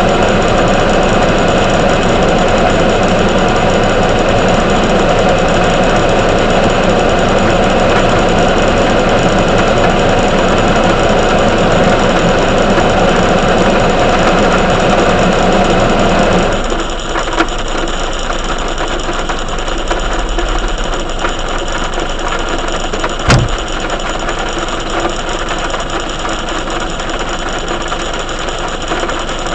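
Heavy thunderstorm rain pouring steadily, easing noticeably a little over halfway through, with a single sharp crack about three-quarters of the way in.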